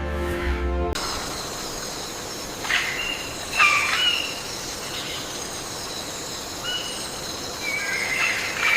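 Background music cutting off about a second in, then nature ambience: a steady high insect drone with a few short bird calls scattered through it.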